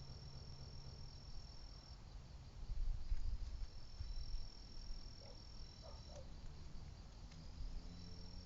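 Insects trilling in a steady high pitched tone that breaks off and resumes a few times. A low rumble underneath swells for a couple of seconds about three seconds in.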